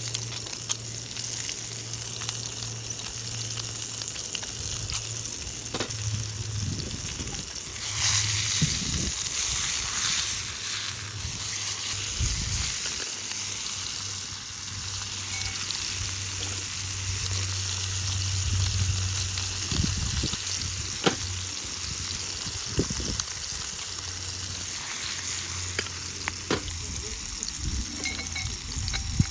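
Food sizzling as it fries in a pan, a steady hiss that swells for a few seconds about a third of the way in, with a few sharp taps now and then.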